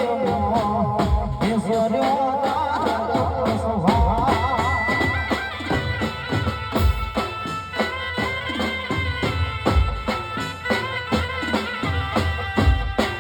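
Live Gujarati garba music through a PA system: a wavering sung melody for the first few seconds, then a held, reedy instrumental melody over a steady drum beat.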